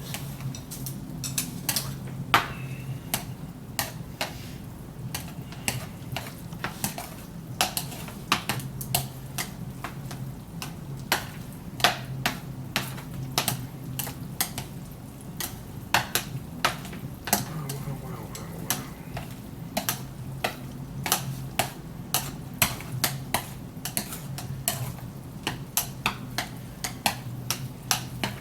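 Utensils repeatedly clicking and scraping against bowls as the noodles are stirred and mixed with their sauce, irregular sharp clinks over a steady low hum.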